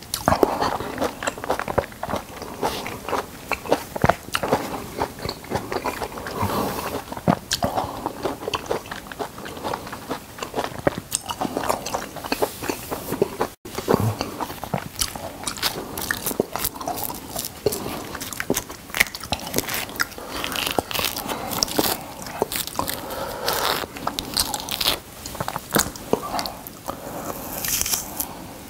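Close-miked chewing and crunching of food, many irregular wet clicks and crackles. After a short break about halfway, a mandarin orange is handled and its peel is torn open, with a brighter tearing burst near the end.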